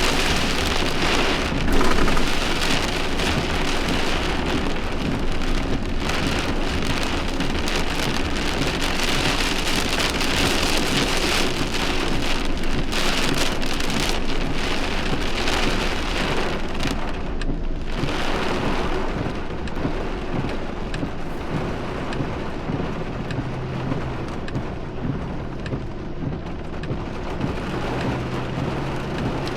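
Heavy rain falling steadily in a thunderstorm, with a brief louder swell about two seconds in and a slight easing in the second half.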